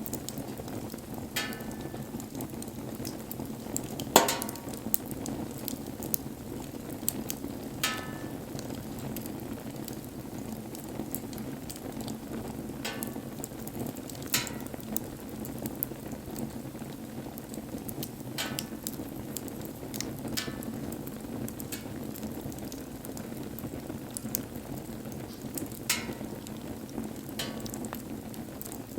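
Wood bonfire burning with a steady hiss and irregular sharp crackles and pops, the loudest about four seconds in.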